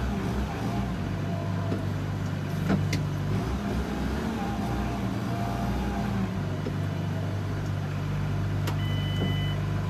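JCB Fastrac 4220 tractor's six-cylinder diesel engine running, heard from inside the cab, its note changing about a second in and again around six seconds in as the transmission is shifted. A short electronic beep sounds near the end, with a couple of light clicks.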